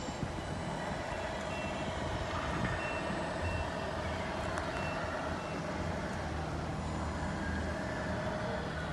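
A 1/14 Tamiya Scania R620 RC truck's sound unit playing a truck engine rumble, with a run of short, evenly spaced high reversing beeps a few seconds in as the model backs up.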